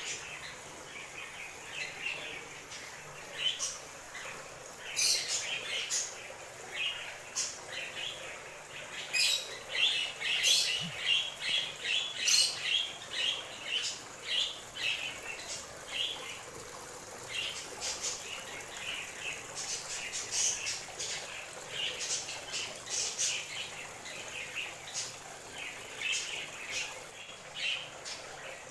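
Several birds chirping and singing in short, quick high notes that overlap one another, busiest around ten to thirteen seconds in.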